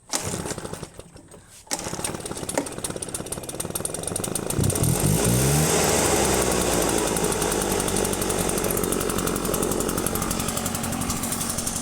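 Husqvarna two-stroke leaf blower engine being pull-started with the choke off after a cold start: a short sputter, then it catches about two seconds in. It speeds up about five seconds in, then runs steadily.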